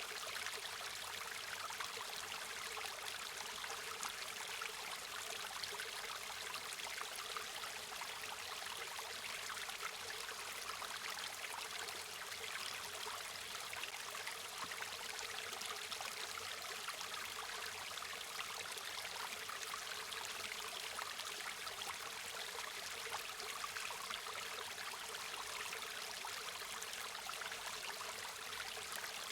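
River water flowing steadily, a continuous even rush and trickle without pause or change.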